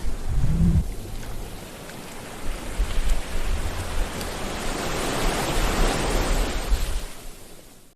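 Sea waves breaking and washing in, a steady rush of surf with a deep rumble underneath. One wave swells through the middle and fades away near the end.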